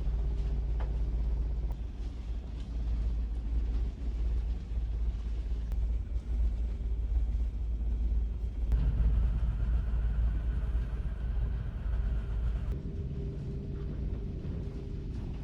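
Deep, steady rumble of a large car ferry under way in rough seas, with a constant hum from the ship's machinery. About nine seconds in, a brighter hiss with faint tones joins the rumble and stops about four seconds later.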